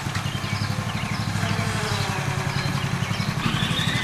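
John Deere tractor engine running at idle with an even, steady throb, just after being started.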